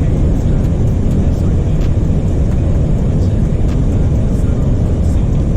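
Wind buffeting the microphone, heard as a loud, steady, ragged low rumble.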